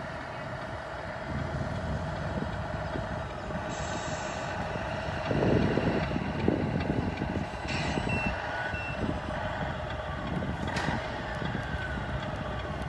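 Tamiya 1/14 Scania R620 RC truck's sound unit playing a simulated truck engine with a reversing beeper. Short hisses come about 4 and 8 seconds in.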